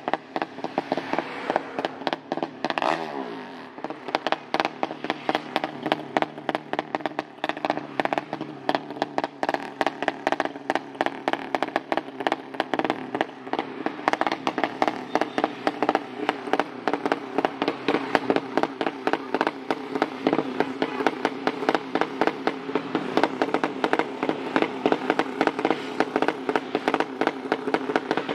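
Modified drag-racing motorcycle engine with an open exhaust running at a fast, uneven idle, its exhaust crackling in a rapid stream of sharp pops. It revs briefly and falls back about three seconds in, then runs on steadily.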